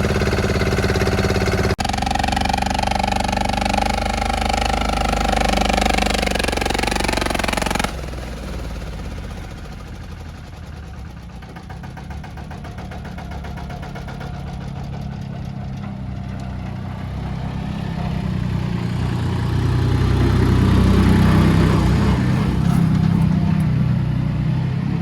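Tractor engine running, with abrupt cuts about two and eight seconds in, then a lower hum that grows louder near the end.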